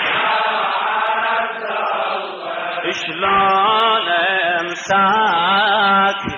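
A male reciter singing a Shia Husseini lament in Iraqi Arabic, unaccompanied, in long held notes that waver in a melismatic trill. The first three seconds are a denser, blurrier stretch of voice before the clear held notes return.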